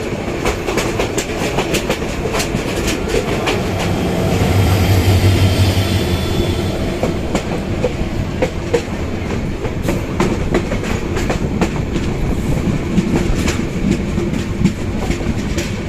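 Passenger train running past, its wheels clattering over the rail joints in a steady run of sharp clicks. A heavier low drone swells for a couple of seconds about four seconds in.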